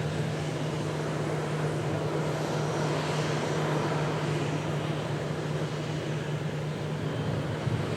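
Jet aircraft engines running with a steady low hum and an even rushing hiss.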